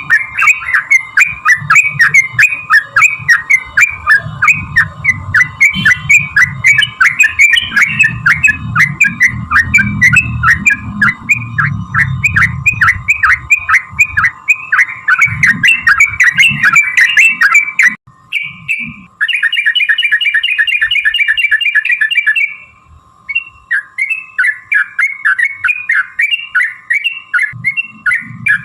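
Yellow-vented bulbul (trucukan) chattering in long, rapid runs of short bubbling notes, several a second, in the fast "ropel" style that keepers play to provoke a bird into answering. About two-thirds of the way in the notes turn to a denser, buzzier chatter, stop briefly, then the quick notes resume. A steady faint hum runs under the first part.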